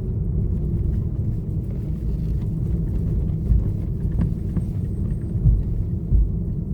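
Car running at low speed, heard from inside the cabin: a steady low rumble of engine and tyres, with a few short thumps from bumps in the road.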